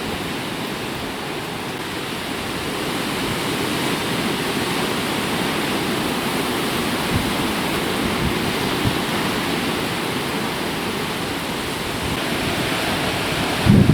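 Hurricane wind and rain, a steady rushing noise that swells slightly and never lets up.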